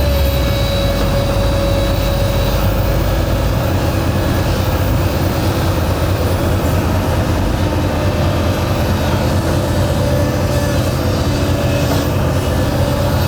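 Heavy diesel construction machinery running steadily under load, a deep engine rumble with a steady whine over it.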